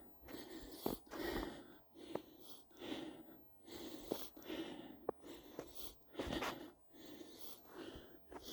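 A hiker breathing hard in a steady rhythm, about one breath a second, with footsteps crunching in snow between the breaths.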